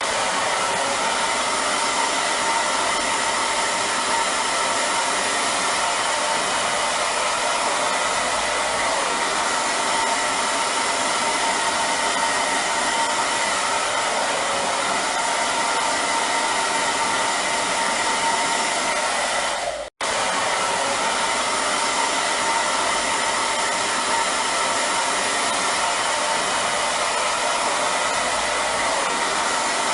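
Hair dryer running steadily: an even rushing of air with a steady whine. The sound cuts out for a split second about twenty seconds in, then carries on unchanged.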